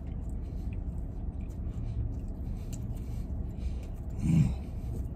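A man chewing a mouthful of donut sandwich, with faint wet mouth clicks over a steady low cabin hum. About four seconds in comes a short, louder low hum from his closed mouth.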